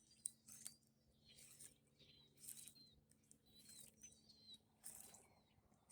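Faint bird chirps: short, high notes repeated every half second or so, over near-silent outdoor quiet with a faint steady low hum.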